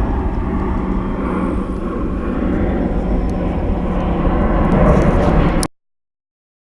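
Military aircraft flying over, a steady low rumble that swells slightly, then cuts off abruptly about five and a half seconds in, leaving dead silence.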